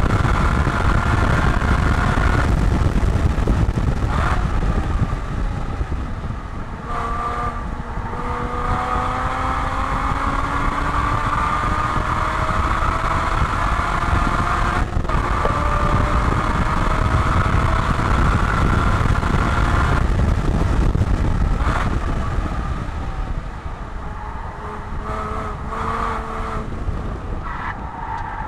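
Porsche 981 Boxster's flat-six engine, heard from inside the cabin at track speed, pulling hard with its pitch climbing and several brief breaks. Road and wind noise run underneath. Near the end it eases off and gets quieter as the car slows for a corner.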